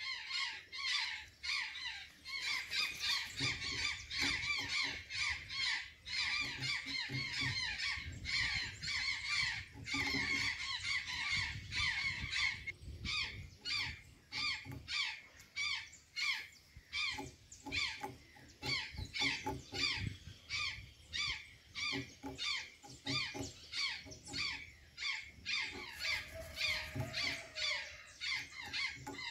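Azure jays calling: an unbroken run of short, squeaky, downward-sliding notes, several a second.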